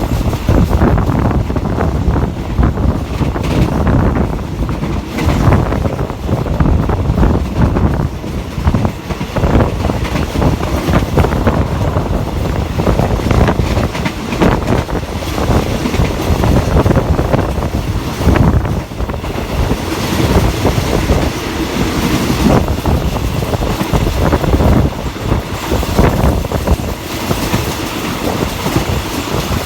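A diesel-hauled passenger train running on the track, heard on board: a steady rumble of wheels on rail with irregular clattering knocks.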